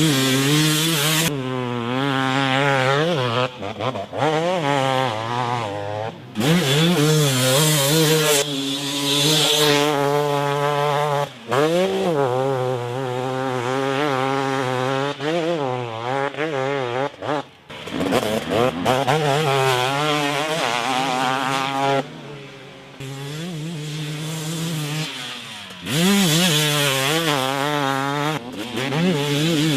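2017 KTM 250 SX single-cylinder two-stroke motocross engine revving hard and shifting through the gears, its pitch climbing and falling again and again. It has several short drops where the throttle is shut off.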